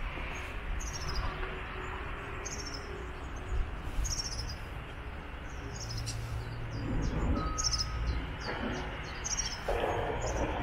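Small birds chirping: short, high, falling chirps repeated every second or so, over a steady hiss of background noise.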